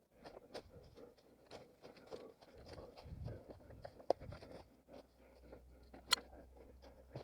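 An orienteer's running footsteps crunching over dry leaves and twigs on the forest floor, with dull footfalls about once a second and one sharp snap about six seconds in.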